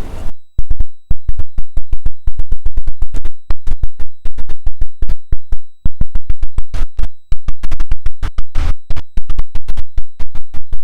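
Loud, rapid crackling and popping from a badly connected microphone plug: the audio cuts in and out many times a second, with dead silence between the pops and a faint steady high whine underneath.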